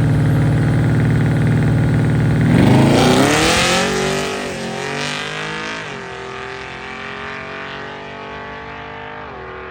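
A drag-racing vehicle's engine held at steady revs on the line, then launching. The pitch climbs fast and drops back at each gear change, about three times, and the sound fades as it pulls away down the strip.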